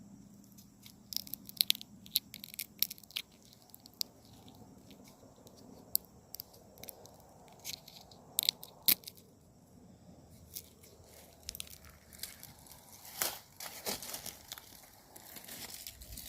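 Footsteps crunching through dry leaf litter and twigs, in irregular sharp crackles. Faint steady high-pitched insect buzz behind them.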